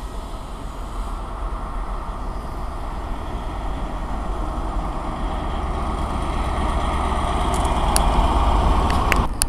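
A train running through the station, its rumble and rail noise building steadily louder. A few sharp clicks come near the end, and then the sound drops off suddenly.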